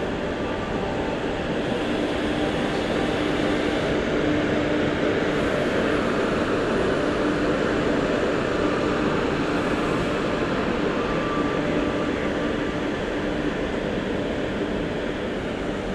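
A train running past on the track: a steady, continuous rolling rumble that swells slightly in the middle.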